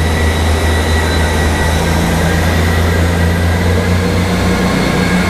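Train at the platform running with a steady low hum and a faint high whine.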